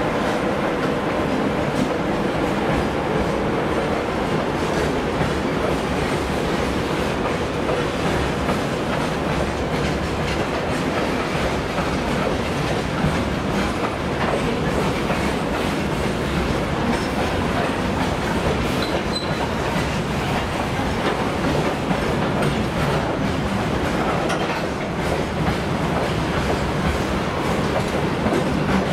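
Freight gondola wagons rolling past behind a ChME3 diesel shunting locomotive: a steady rumble of wheels on rail, with clacking as the wheels cross the rail joints.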